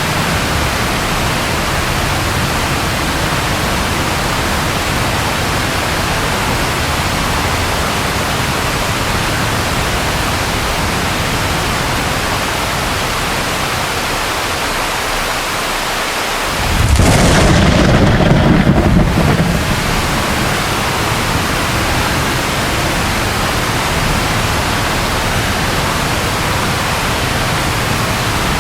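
Steady rain with one sudden, loud thunderclap about seventeen seconds in that rumbles and dies away over about three seconds.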